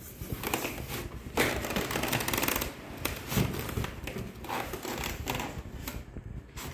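Rustling and crinkling of packaging being handled during an unboxing, with small clicks. Loudest from a little over a second in until nearly three seconds.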